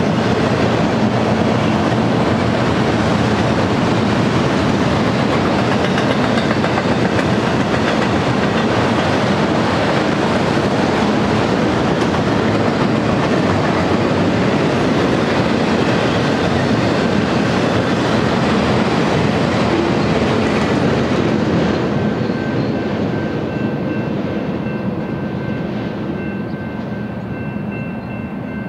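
Union Pacific auto-rack freight train rolling past, its steel wheels clattering over the rails. About 22 seconds in the last cars pass and the sound fades as the train draws away, with a faint steady high tone coming in near the end.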